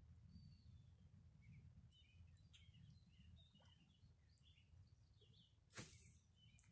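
Near silence with faint songbird chirps scattered throughout over a low steady rumble. About six seconds in, one brief sharp noise stands out as the loudest sound.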